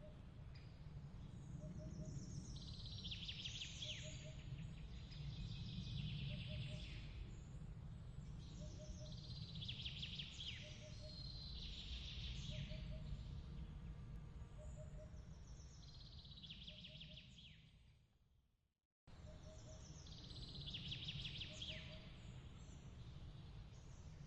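Faint nature ambience: a steady low rumble of noise under repeated birdsong phrases, with a soft double chirp ticking along about once a second. The track fades out to silence near the end, then starts up again abruptly, as at a loop point.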